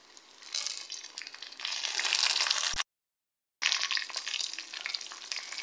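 Chopped tomatoes hitting hot oil and fried onions in a steel kadai, sizzling loudly. The sizzle cuts out completely for under a second about halfway through, then carries on more softly as the oil settles under the tomatoes.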